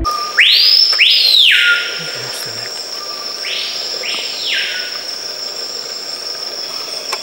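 Bird calls: two pairs of sweeping calls, each rising steeply and falling back, about half a second in and again a few seconds later, over a steady high-pitched insect drone.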